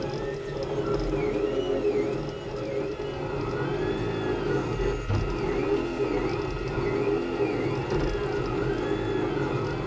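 Leapfrog Creatr 3D printer running a print: its stepper motors whine in repeated rising-and-falling sweeps as the print head speeds up and slows through its moves, over a steady hum.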